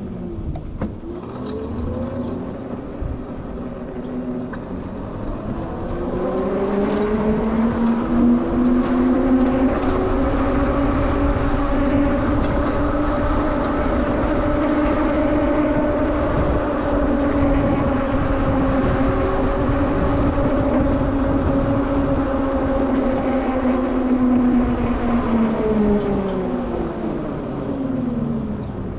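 A vehicle's drive whine with road rumble. The pitch rises as it speeds up over the first several seconds, holds steady while cruising, and falls as it slows near the end.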